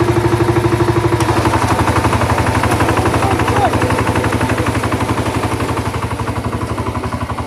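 Engine of a ploughing machine in a paddy field running steadily, with a fast even beat of about nine pulses a second, slowly getting fainter toward the end.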